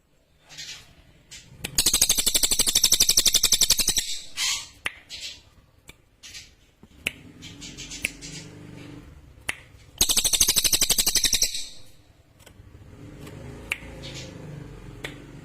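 A cililin songbird singing two loud, high, rapid trills of about two seconds each, one about two seconds in and one about ten seconds in, with a few short chirps and clicks between them.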